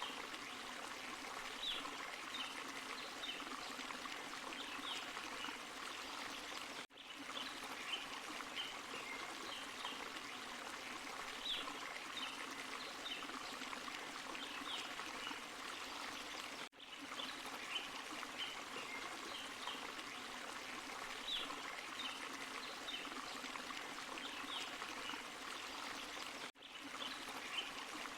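Forest stream and small waterfall splashing steadily over rocks, with light high trickling ticks on top. The sound drops out for an instant three times, about every ten seconds.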